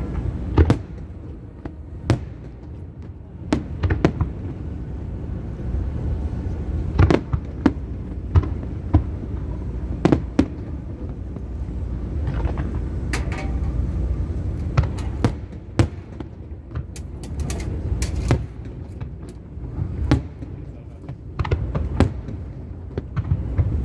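Aerial fireworks going off: sharp bangs at irregular intervals, coming thick and fast about two-thirds of the way through, over a steady low rumble.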